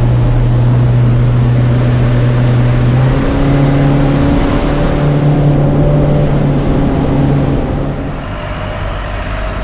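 A boat's engine running steadily with a low hum. Its pitch steps up a little about three seconds in, and it drops in level near the end.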